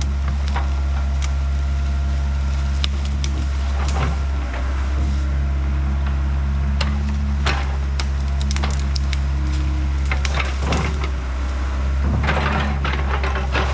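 Diesel engine of a Yanmar B50 compact excavator running steadily while wood cracks and splinters at intervals, with a cluster of snapping near the end, as the fallen hickory is broken up and handled.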